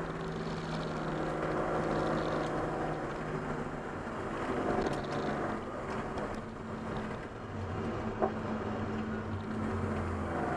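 Racing saloon's engine running hard, heard from inside the cockpit, its note changing partway through. A single sharp click comes about eight seconds in.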